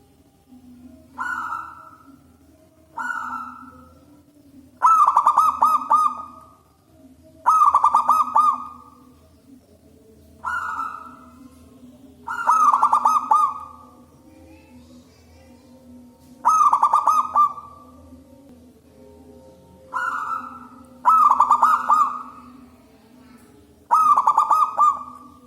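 Zebra dove (local perkutut) cooing loudly. The phrases of short coos and longer, fast-rolling coos repeat every two to four seconds.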